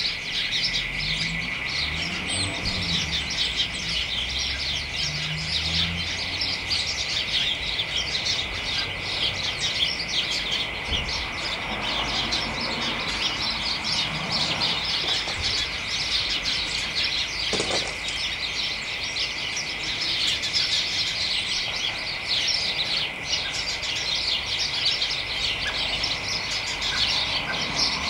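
A flock of house sparrows chattering in a hedge: many short chirps overlapping in a continuous, busy chorus.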